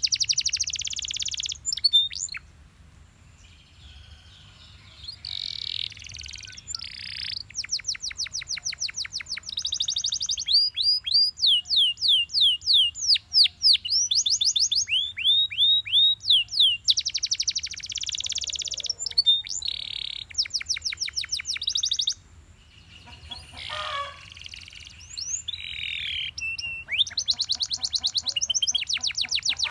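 Canary singing in long phrases of rapid trills, each note a quick downward sweep, with brief pauses about three seconds in and again past twenty seconds.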